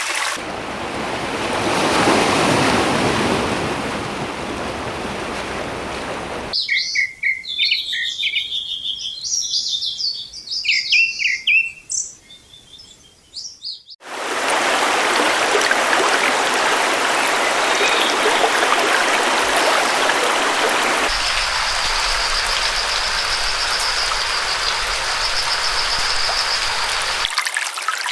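Rushing water from a stream fills the first few seconds and cuts off abruptly. Songbirds then chirp and whistle alone for several seconds, after which the running water returns. Over the water a high, steady trill sounds for the last several seconds.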